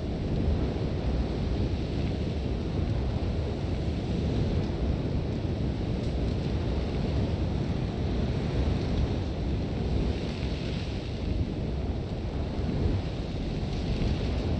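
Strong, steady wind of a sandstorm, a deep low rumble with a hiss of blown sand over it that swells briefly about ten seconds in.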